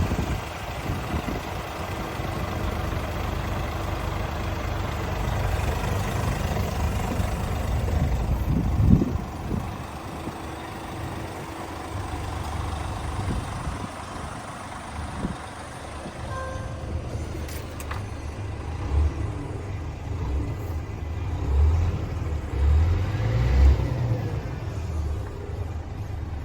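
Scania S450 truck's 13-litre six-cylinder diesel engine running steadily with a low rumble, swelling in a few louder low surges about three-quarters of the way through.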